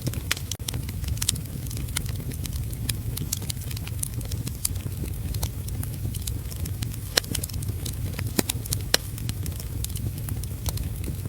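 Fireplace wood fire crackling with irregular sharp pops, a few louder ones in the second half, over a steady low rumble and the hiss of heavy rain.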